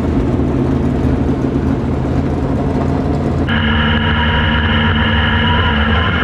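Race car engines running at steady speed. About three and a half seconds in the sound cuts abruptly to a different, steadier engine tone with several held pitches.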